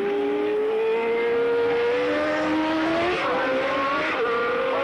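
1983 Formula One race car engine at high revs, its pitch rising as it accelerates, with gear changes about three and four seconds in.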